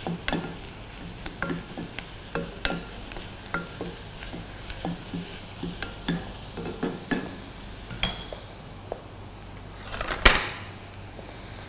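Chopped mushrooms, onion and garlic sizzling in butter in a saucepan while a wooden spatula stirs them, with irregular taps against the pan as the mushrooms wilt and shrink. Near the end there is one louder knock.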